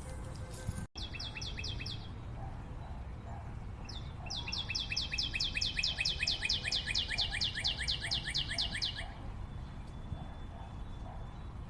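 A forest bird calling fast runs of sharp, repeated down-slurred notes, about seven a second: a short run near the start, then a longer run of about four seconds in the middle, over a steady low background rumble.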